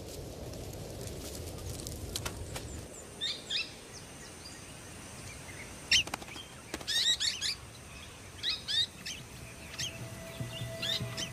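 Birds giving short, high chirping calls in repeated bursts from about three seconds in. Before that, a low rumble of the bush fire is heard, with a few sharp cracks.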